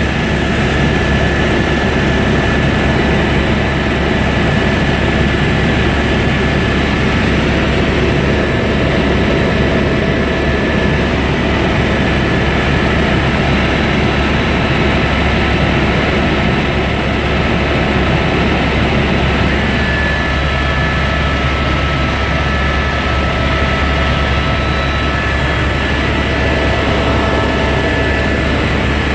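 Helicopter turbine and rotor noise, loud and steady, with a few faint steady whining tones over it.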